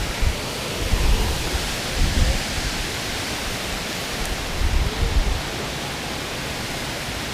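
Steady rushing roar of a waterfall, with a few short low rumbles in the first five seconds.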